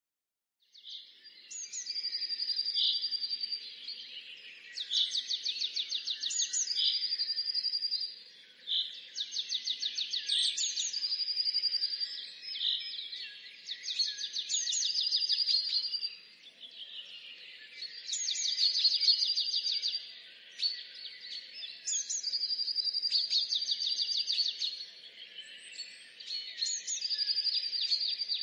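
Songbird song: high phrases repeat every three to four seconds, each a fast trill of rapid notes with a held high note.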